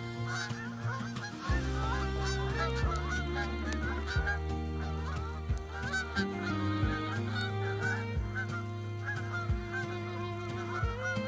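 A flock of geese honking, many short overlapping calls throughout, over background music with long held low notes.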